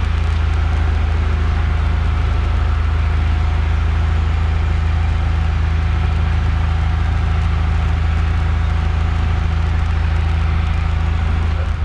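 Cessna 172F's six-cylinder Continental O-300 piston engine running steadily at low power on the ground, a constant low drone with a brief dip near the end.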